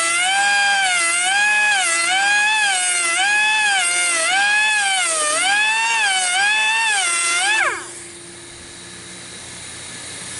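Electric grinder whining as it sharpens a sawmill band blade, its pitch dipping and recovering about once a second as it is loaded against the teeth. About three-quarters of the way through it is switched off and spins down with a steeply falling whine.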